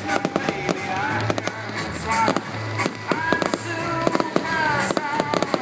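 Fireworks bursting and crackling in quick succession, many sharp bangs throughout, over music playing on a sound system.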